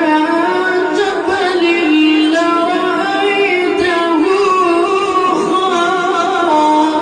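A child's voice reciting the Quran in melodic Arabic chant, holding long notes with ornamented turns and slides.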